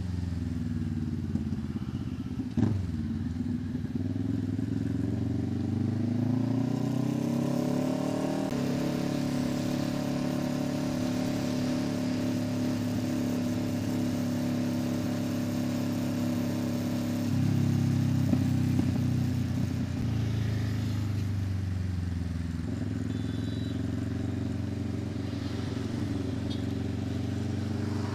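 Kawasaki Ninja 650's parallel-twin engine through an SC Project exhaust, ridden on the road. It eases off with a sharp click a few seconds in, then pulls up in pitch for several seconds and settles into a steady cruise, swelling louder for a couple of seconds past the middle before easing back.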